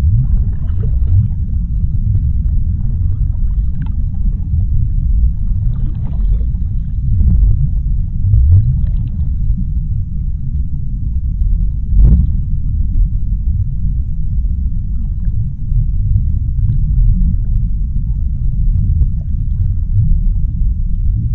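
Underwater ocean ambience: a deep, steady rumble with faint scattered crackles over it and one sharper click about halfway through.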